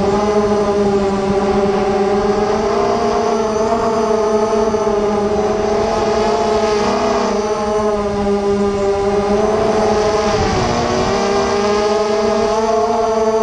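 Racing quadcopter's electric motors whining in flight, a steady multi-tone hum whose pitch wavers up and down with throttle changes.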